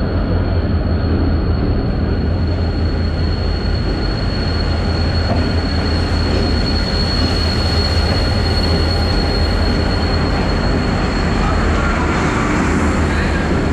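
Train: a steady, loud low rumble with a constant high-pitched whine above it.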